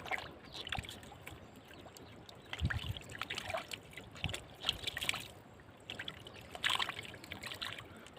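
Shallow floodwater trickling and sloshing, with irregular small splashes coming in short clusters.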